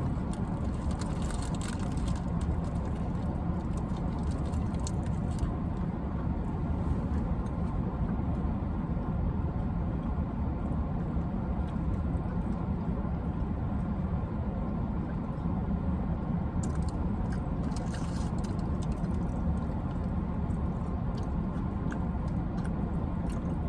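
A steady low mechanical hum runs throughout. Over it come faint crackles and clicks, heaviest a little after halfway, as someone eats a burrito.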